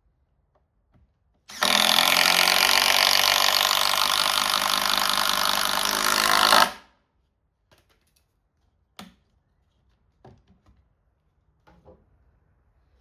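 Power drill driving a 100 mm screw into treated timber, running steadily for about five seconds and cutting off abruptly. A few light knocks of wood follow.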